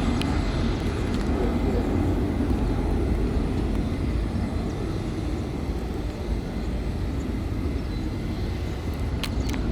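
Boeing 737-400's CFM56-3 jet engines rumbling at takeoff power as the airliner climbs away, slowly fading. A couple of faint clicks near the end.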